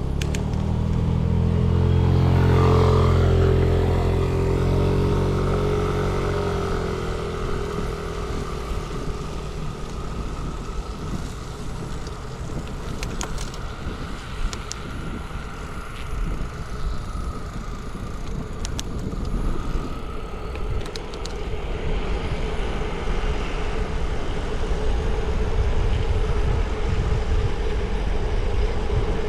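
A motor vehicle passing close by, its engine loudest about three seconds in and then fading away. Steady low rumble follows, with a few light clicks and the hum of traffic.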